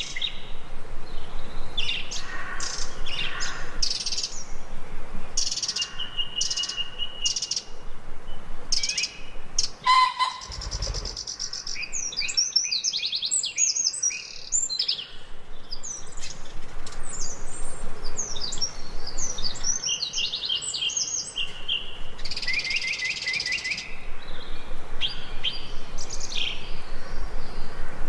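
Several songbirds chirping and singing, a dense mix of short high chirps, quick trills and repeated notes. About ten seconds in the calls break briefly, with a short low rumble.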